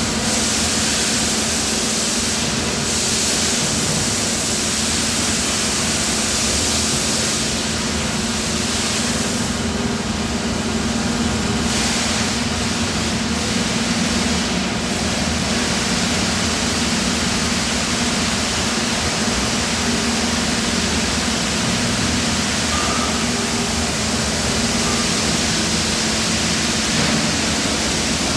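Steady die-casting factory machinery noise: an even hiss with a constant low hum, unchanging throughout.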